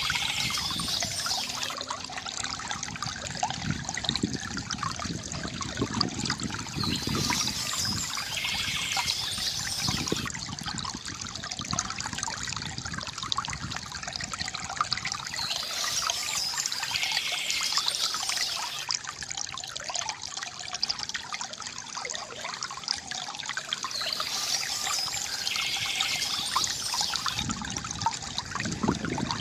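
Water from a bamboo fountain trickling and gurgling steadily into a basin. A brief higher-pitched sound recurs about every nine seconds.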